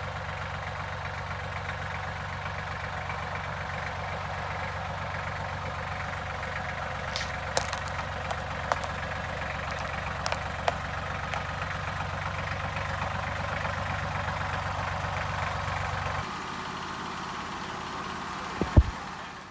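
Engine idling steadily, with a few light clicks over it. About three-quarters of the way through, the low part of the hum drops away, and a single sharp knock comes near the end.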